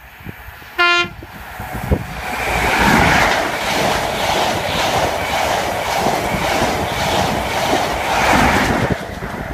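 An InterCity 125 high-speed train, with Class 43 power cars and Mark 3 coaches, sounds one short horn blast on a single note about a second in. It then passes close by at speed, loud, its wheels beating a regular clickety-clack over the rail joints, easing off near the end as the rear power car goes by.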